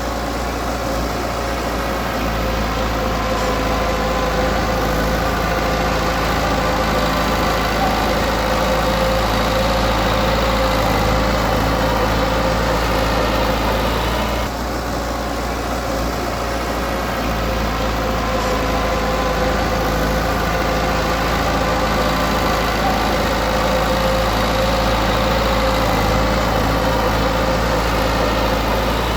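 Diesel engine of heavy earthmoving equipment running steadily, with a brief dip in level about halfway through before it carries on.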